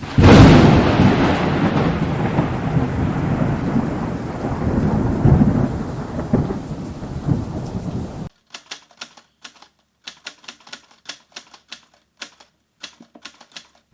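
A sudden thunderclap with rain, dying away over about eight seconds, then a run of sharp, uneven typewriter key clicks against dead silence: edited-in intro sound effects.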